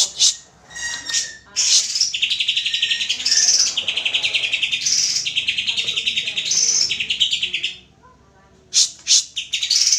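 Green leafbird (cucak ijo) song: fast rattling trills alternating with higher sharp notes, with a short pause about eight seconds in before the trills start again.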